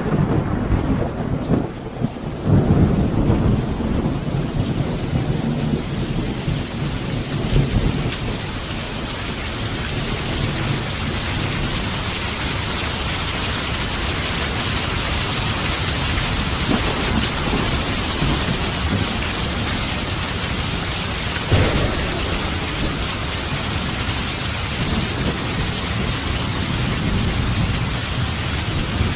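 Steady heavy rain with thunder: deep rolling rumbles through the first several seconds over the constant hiss of the rain, and a short, sharper thunder peak about three-quarters of the way through.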